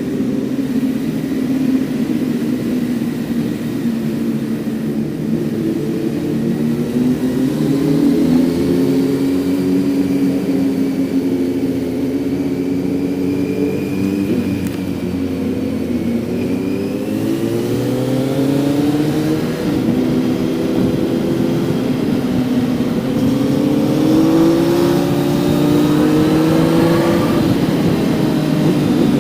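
Kawasaki Z900's inline-four engine heard from the rider's seat while riding, running fairly steadily at first and then twice revving up through the gears, the pitch climbing and dropping back at each shift.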